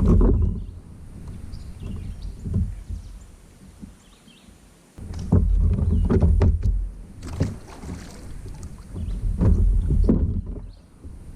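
Water and wind noise around a fishing kayak: irregular surges of low rumble on the microphone, with a few short knocks.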